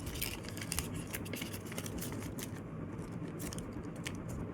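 A folded sheet of paper being handled and creased: scattered light crinkles, clicks and scrapes of paper rubbing on paper, over a faint steady low hum.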